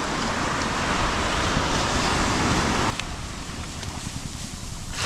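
Ocean surf breaking on the beach with wind buffeting the microphone. About three seconds in, the sound drops abruptly to a quieter low rumble of wind.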